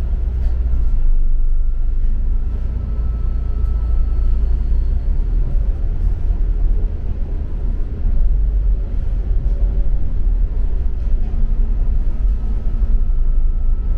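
Steady low rumble of a double-decker bus under way, heard from inside: engine drone and road noise.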